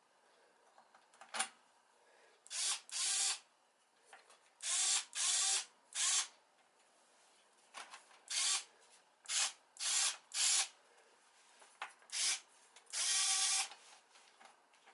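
A small electric motor, like a power drill or driver, running in about a dozen short bursts of under a second each, with one longer run near the end.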